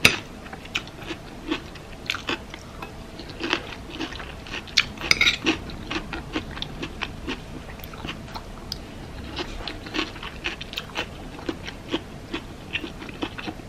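Close-miked chewing of a taco rice bowl: crunches and wet mouth clicks, a few each second, at an uneven rhythm.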